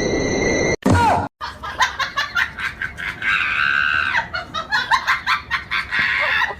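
Music cuts off abruptly, and a person laughs hard in quick repeated bursts, with a drawn-out high cry about three seconds in.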